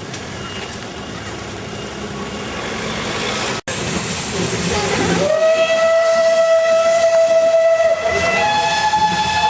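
Steam locomotive at work: a rising rush of noise, a brief drop-out, then a burst of steam hiss. The steam whistle then blows a long steady note, which shifts up to a higher note about three seconds later.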